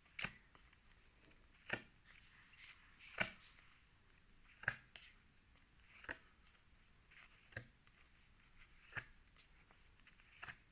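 Flashcards being turned over one at a time, a short light tap or flick about every second and a half.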